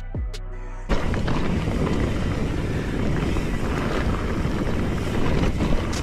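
Music with deep, falling bass notes cuts off about a second in. It gives way to the steady rush of a tour boat moving fast, with its motor and wind buffeting the microphone.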